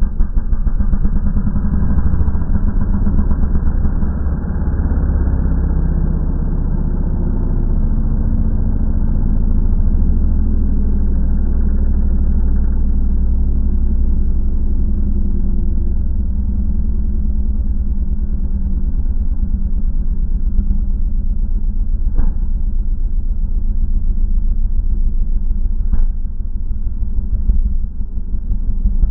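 Yamaha RX100's single-cylinder two-stroke engine running steadily, its exhaust giving a dense, rapid pulsing note. Two brief sharp clicks come in the last third.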